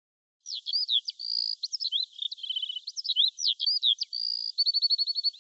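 A songbird singing a varied song of quick chirps, whistles and short trills, starting about half a second in after a moment of silence.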